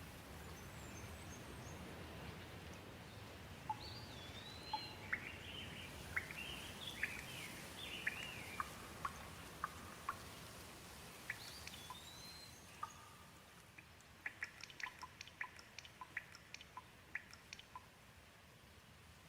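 Light rain falling with a faint steady hiss that thins out later on, while a bird calls in short chirps that slide up and down in pitch. Near the end comes a flurry of short sharp ticks, like drips.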